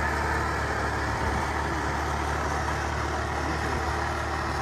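Speed boat engine running steadily, a low hum under a constant drone.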